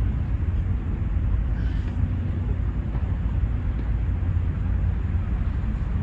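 Steady low outdoor rumble with no clear single event, the kind of background heard while walking outdoors.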